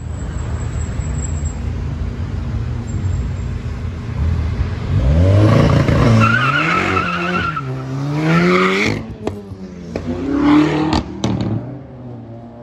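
A car accelerating hard away, its engine revving up and dropping back several times as it shifts through the gears, with another burst of revs near the end before it fades.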